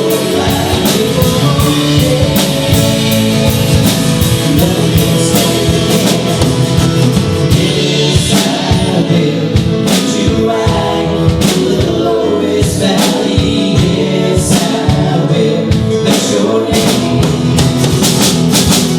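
Gospel music with singing over a drum kit and guitar, played continuously at a steady beat.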